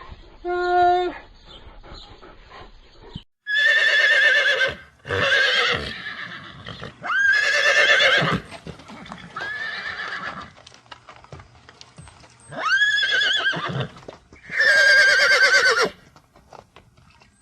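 Horse neighing repeatedly: about six loud whinnies with a shaky, wavering pitch, starting about three seconds in.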